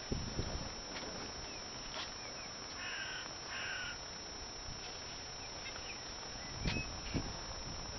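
A crow cawing twice in quick succession, about three seconds in. Low thumps near the start and again near the end.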